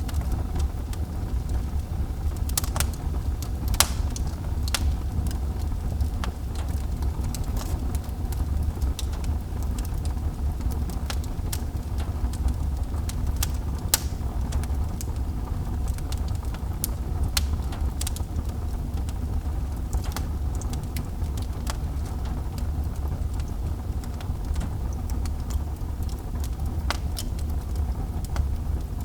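Wood fire burning in a fireplace: irregular sharp crackles and pops over a steady low rumble, with the loudest pops about 4 and 14 seconds in.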